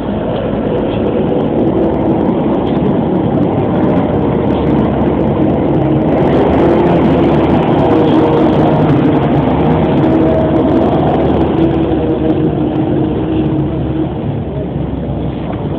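Helicopter running loudly and steadily, a dense engine and rotor drone with a steady whine in it that swells a little about midway.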